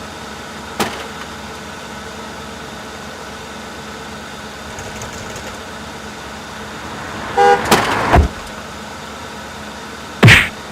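Cartoon vehicle sound effects over a steady faint background: a short horn toot about seven seconds in, a loud hit right after it, and two more loud hits near the end.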